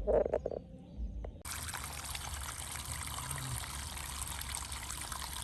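Water trickling and running steadily, cutting in abruptly about a second and a half in, after a brief vocal sound at the start.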